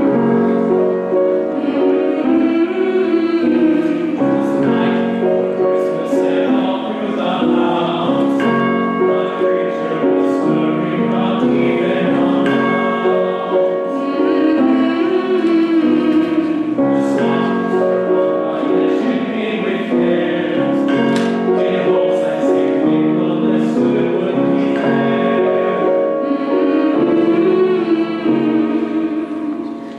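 Choir singing a Christmas carol in sustained notes.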